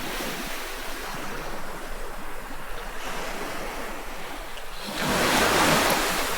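Ocean waves washing onto a beach, with a louder wave surging in about five seconds in.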